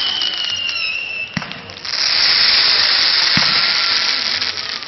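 Fireworks going off: a loud hissing spray with a whistle that falls slightly in pitch for about a second, and two sharp bangs, about a second and a half in and again near three and a half seconds.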